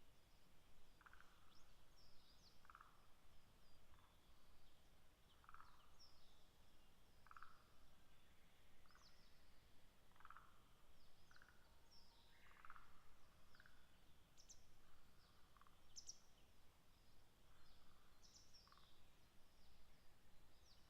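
Faint wild animal calls: a short low note repeating about every second and a half, with scattered short, higher chirps over it.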